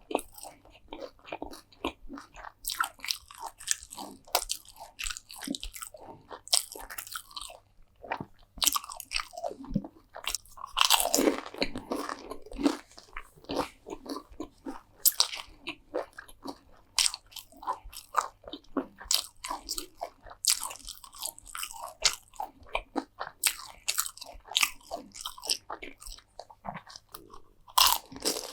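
Close-miked eating: a person biting into and chewing crunchy food, a steady run of short crisp crunches with a louder, longer crunching bout about eleven seconds in.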